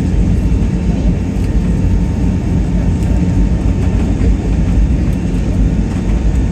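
Airliner cabin noise in flight: a steady low rumble of jet engines and airflow, unbroken throughout.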